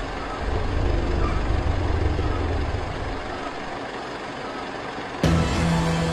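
Low, steady rumble of road vehicles idling. About five seconds in, music cuts in abruptly.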